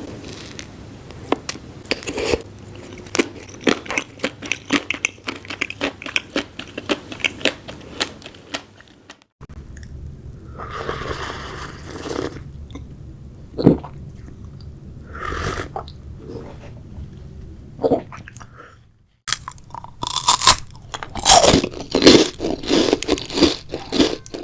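Close-miked eating: a person biting into and chewing crunchy food, with rapid crackling crunches and wet chewing. The sound breaks off abruptly twice, with a loud run of crunching near the end.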